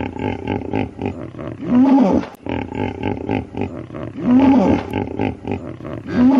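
A large wild animal calling: a rapid pulsing series of calls, with a deeper call that rises and falls three times, about two seconds apart.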